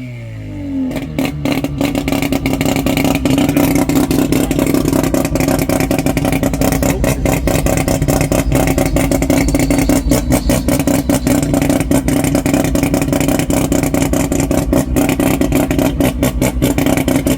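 A modified race car engine gets louder about a second in, then runs steadily at a loud, uneven idle with rapid irregular pulses.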